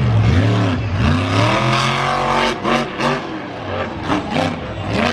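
Monster truck engine revving hard, its pitch swooping up and down several times with a long climb through the middle, and a few sharp cracks after that climb.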